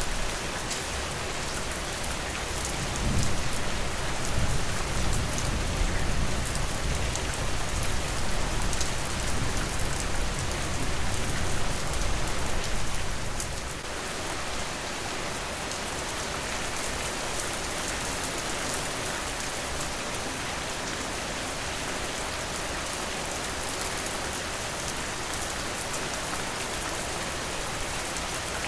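Steady rain falling on a porch, an even hiss of drops. From about three seconds in, a low rumble swells under the rain, then fades out around fourteen seconds.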